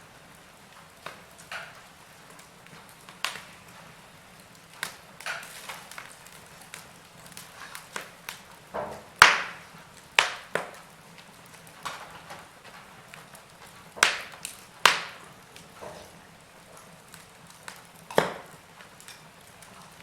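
Wood fire in a fireplace crackling: irregular sharp pops and snaps over a faint steady hiss, the loudest pops falling around the middle and near the end.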